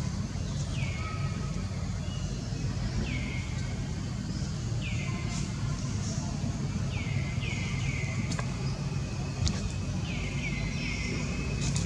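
A steady low rumble, with a bird's short high call repeating every second or two, each note sliding down and levelling off, sometimes two or three in quick succession. A few faint clicks come near the end.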